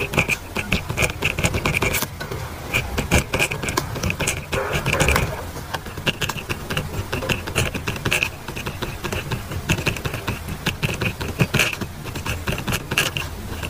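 Pen writing on paper: a continuous run of quick, short scratching strokes and small ticks as words are handwritten.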